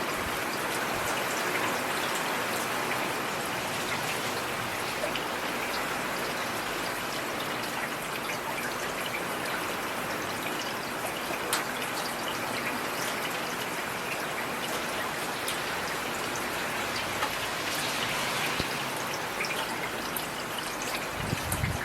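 Heavy rain falling steadily, with a constant hiss of rain and scattered individual drop impacts.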